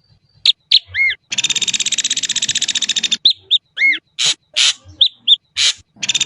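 Ashy drongo singing a varied phrase: after a brief pause, quick arched whistles, then a long, rapid, buzzy rattling trill of about two seconds, followed by more arched whistles and sharp chips.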